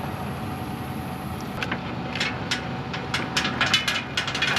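A forklift running steadily, with a run of sharp metal clicks and clanks that grows busier towards the end as its load is set in place.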